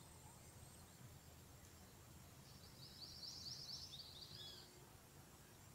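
Near silence over a faint low rumble. About two and a half seconds in, a small bird sings a fast run of high notes lasting about two seconds.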